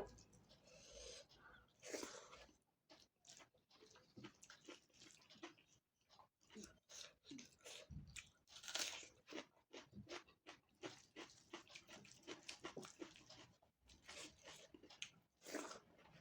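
Close-up eating sounds: chewing with irregular wet mouth clicks and crunching bites, the loudest of them a few seconds apart.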